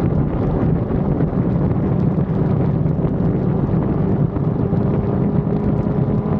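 Wind rushing over the action camera's microphone at riding speed, loud and steady, with a faint motorcycle engine tone underneath that rises slightly in pitch midway.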